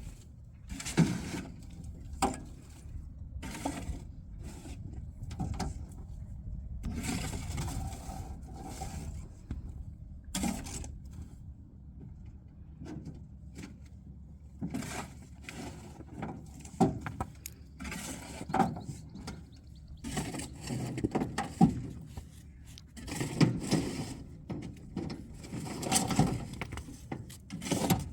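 Irregular scraping and knocking of objects being handled, with sharp knocks scattered at uneven intervals and short stretches of rubbing or scraping between them.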